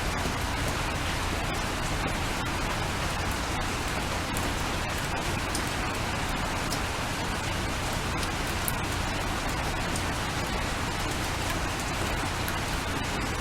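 Steady rain, an even hiss with many scattered sharp ticks of individual drops striking a surface.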